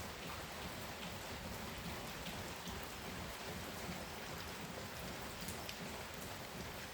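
Steady rain falling, with scattered drops pattering on nearby surfaces.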